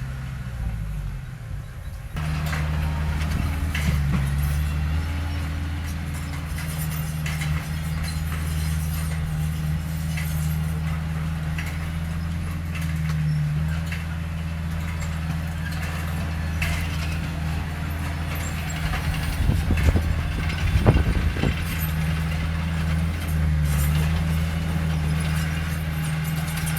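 Heavy diesel engine of earthmoving machinery running steadily under load, with scattered metallic clanks and rattles. The sound changes abruptly about two seconds in, and it grows louder and rougher for a couple of seconds near the 20-second mark.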